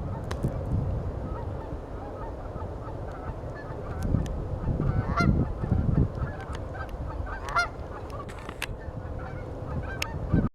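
A flock of geese honking, with scattered quieter calls throughout and two louder honks about five and seven and a half seconds in, over a steady low rumble.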